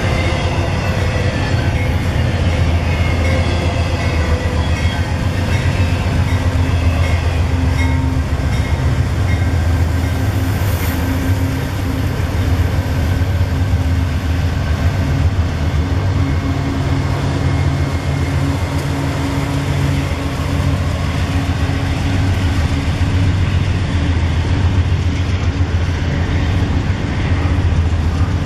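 Freight trains passing close by at speed: Union Pacific diesel locomotives run past with a steady low engine drone and heavy rumble, then coal hoppers roll by. A double-stack intermodal train rumbles on the adjacent track.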